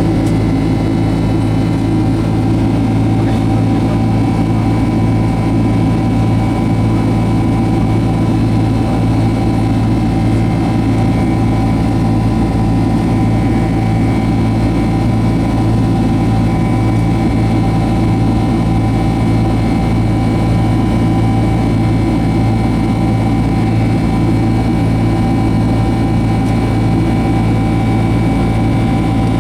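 Boeing 767-200 jet engines running with a steady, loud drone, several fixed humming tones held under an even rush of noise.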